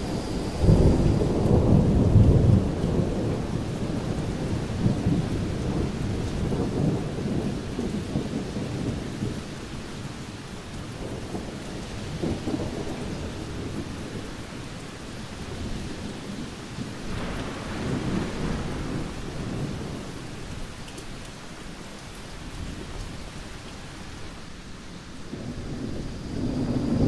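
Thunderstorm: steady rain hiss with rolling thunder. A loud rumble builds about a second in, further rolls come and go, and another builds near the end.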